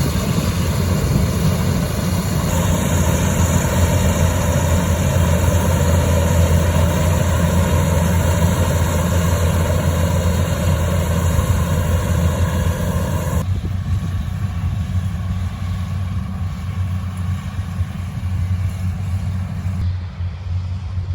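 An engine running steadily with a deep, even hum. The higher part of the sound changes abruptly twice, about two and a half seconds in and again about thirteen seconds in.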